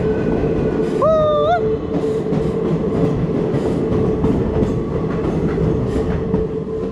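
Passenger train heard from an open coach doorway, running through a tunnel and out of it: a steady rumbling hum with the clatter of wheels over the rail joints. A short, high, rising call cuts in about a second in.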